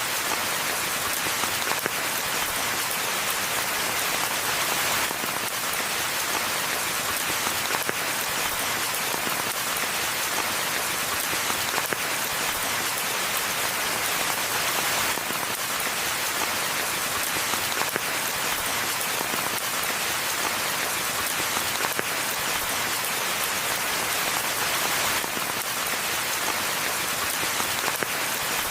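Steady rainfall: an even, dense patter of drops on the forest pathway and its foliage, unchanging throughout, with no thunder.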